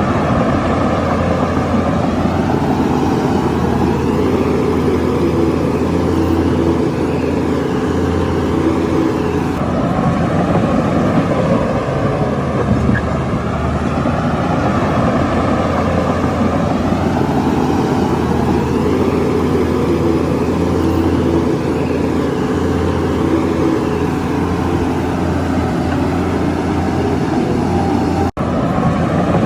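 Shantui bulldozer's diesel engine running steadily under load, its pitch rising and falling in slow swells every few seconds. The sound drops out for an instant near the end.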